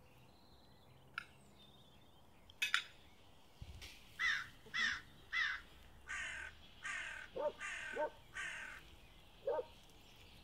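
Birds calling: three short calls, then a run of harsh, repeated calls for about four seconds. Two sharp clicks come before them.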